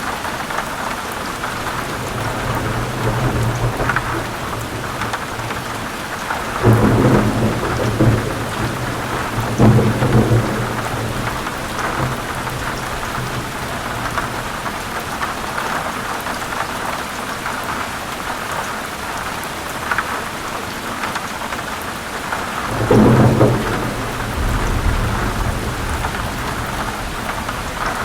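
Heavy rain falling steadily, with thunder rumbling over it several times; the loudest peals come about seven and ten seconds in, and another about twenty-three seconds in.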